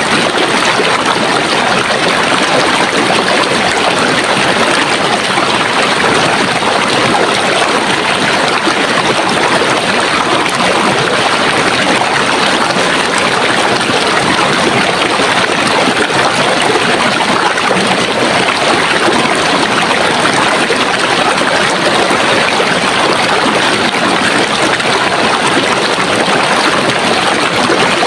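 Running water of a stream or brook, a steady rushing and gurgling flow that stays even throughout.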